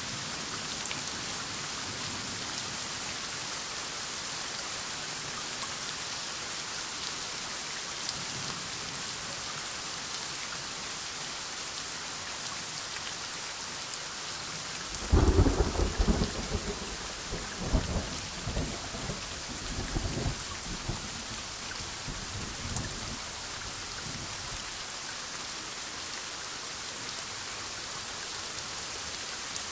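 Steady heavy rain. About halfway through, a sudden loud thunderclap breaks out and rolls on in a series of fading rumbles for several seconds.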